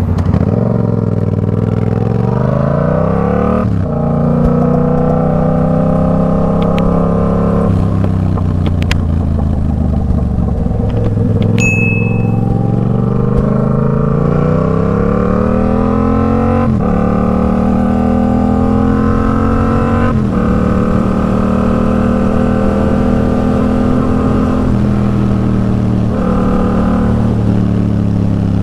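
Yamaha MT-07's parallel-twin engine through an aftermarket Arashi exhaust, accelerating through the gears: the pitch climbs and then drops sharply at each of about four shifts, then settles into a steadier cruise. A brief high beep sounds about halfway through.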